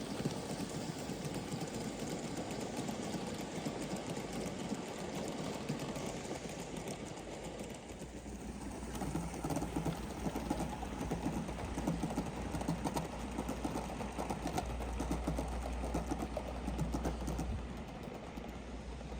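Gauge 1 live-steam model locomotive running, with a quick, even chuffing rhythm that grows louder a little under halfway through and eases off near the end.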